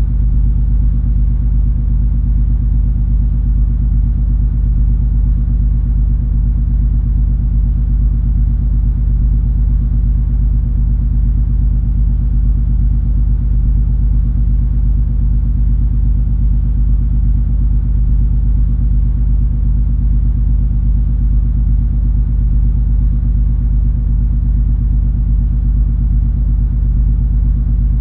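Steady low rumble and hum of the cruise ferry MS Color Magic's engines and hull under way, a deep drone with several steady low tones and a faint hiss above, unchanging throughout.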